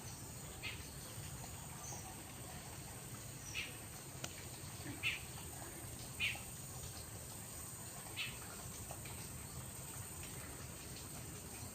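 A bird's short chirps, about five of them spaced a second or two apart, over a steady low background noise.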